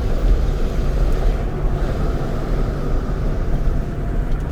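Steady low rumble of a one-ton truck driving, with engine and tyre noise heard from inside the cab.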